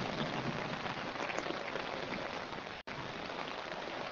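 Heavy rain falling in a steady, even hiss. The sound cuts out for an instant about three seconds in.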